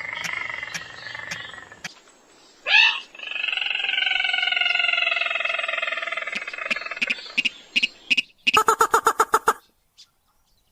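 Recorded crake and rail lure calls. Long drawn-out calls fall slowly in pitch, a sharp swooping squeal comes about three seconds in, and near the end a fast rattling series of notes breaks off into a short pause.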